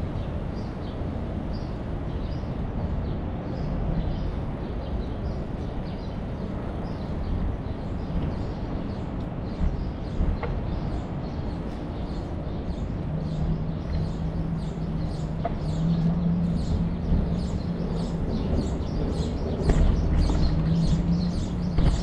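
A flock of small birds chirping, with many short, high, overlapping calls that grow denser in the second half. Beneath them is a steady low rumble, and a low hum joins about halfway through.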